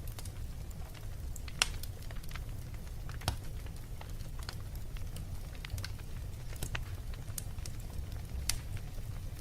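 Wood fire crackling in a fireplace: irregular sharp pops every second or so over a steady low rumble, the loudest pop about a second and a half in.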